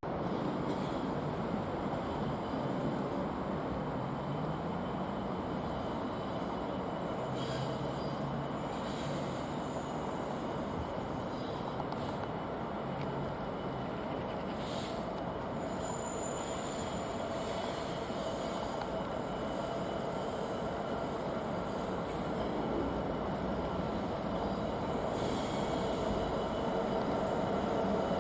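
Freight train rolling past on the rails: a steady rumble of wagons with a few brief, faint high-pitched wheel squeals around the middle.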